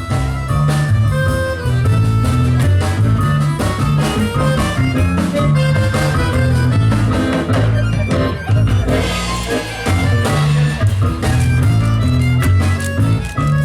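A live band playing: a prominent bass line moving from note to note under several pitched instruments, with frequent sharp percussive hits.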